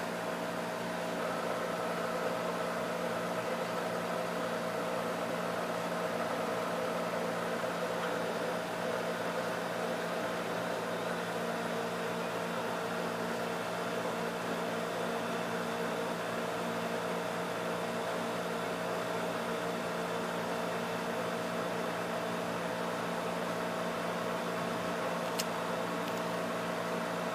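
Springer 12,000 BTU air conditioner running with a steady hum and a mid-pitched whine over a hiss of moving air. A short tick sounds once near the end.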